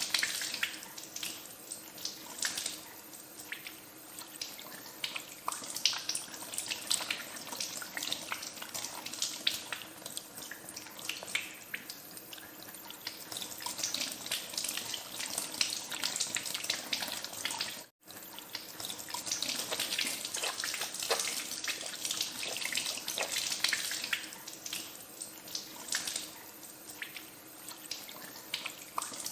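Tap water running into a sink while hands are washed under it, with uneven splashing throughout. The sound cuts out for an instant about 18 seconds in.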